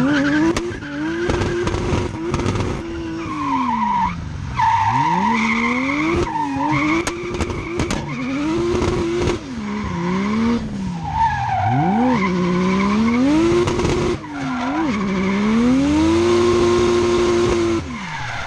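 Turbocharged M104 straight-six of a Mercedes CLK drift car revving hard, its pitch climbing and dropping again and again and held steady at high revs for stretches, over the screech of tyres spinning in a drift.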